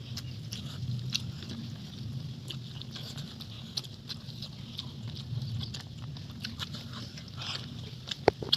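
Close-miked eating: a person chewing and smacking their lips over a meal of small fish, with frequent short, irregular wet mouth clicks over a steady low hum. Two sharper clicks come near the end.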